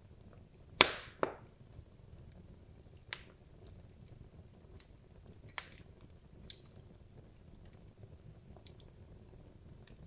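Wood logs burning in a fireplace, crackling: two loud sharp pops about a second in, then a few smaller scattered pops and faint ticks over a low steady hiss of the fire.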